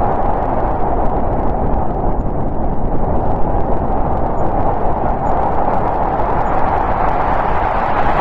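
Winter storm wind blowing steadily, a dense rushing noise with a broad hollow band in the middle range and a low rumble underneath, swelling slightly near the end.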